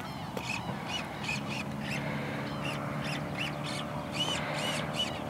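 Birds calling repeatedly, short arched chirps two or three a second, over a low steady hum.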